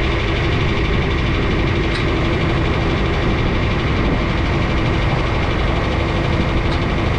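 Tractor engine running at a steady speed, with a constant drone.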